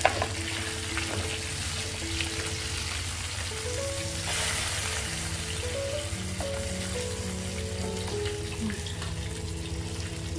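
Masala-coated salmon fillets frying in oil in a frying pan, a steady sizzle, with background music of held, slowly changing notes playing along.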